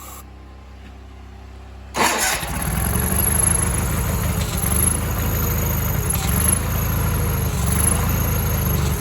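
Sears Suburban garden tractor's engine catching suddenly about two seconds in and settling into a steady run. It is a first start on a carb-cleaner prime at half choke after sitting about nine months, with the fuel pump not yet drawing fuel.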